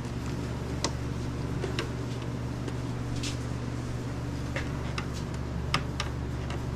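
Scattered light clicks and ticks of a stiff plastic dash-cluster piece being worked and pushed into its mounting, over a steady low hum.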